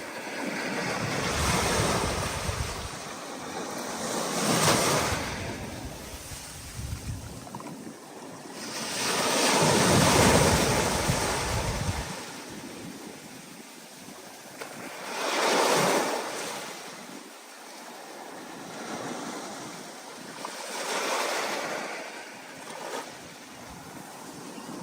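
Ocean waves in rough, stormy surf, breaking and rushing in: five swells of rushing noise, the biggest about ten seconds in.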